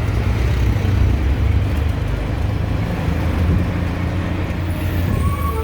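A road vehicle running: a steady low engine and road rumble. Near the end a steady high tone starts over it.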